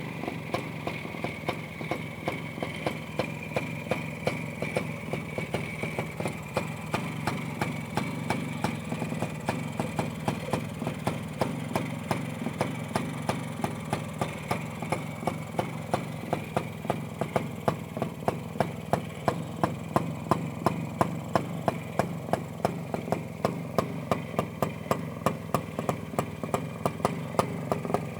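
Minsk M1M motorcycle's 125 cc two-stroke single idling, with regular sharp pops about three times a second that grow louder in the second half.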